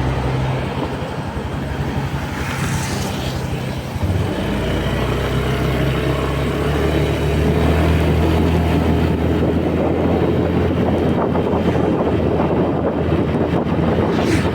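Honda Beat single-cylinder scooter engine and exhaust running under way. About four seconds in, its note drops lower and gets louder, over steady road and wind noise.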